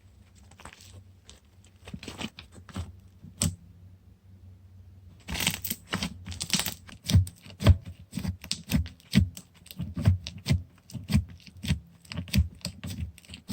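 Toffee slime being handled by hand, making sticky pops and clicks: a few scattered ones at first, a crackly stretch about five seconds in, then a steady run of pops about two a second.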